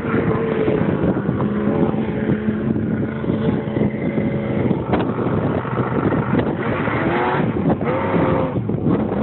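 Loud motor vehicle engines running, with the revs rising briefly about seven seconds in and again about a second later.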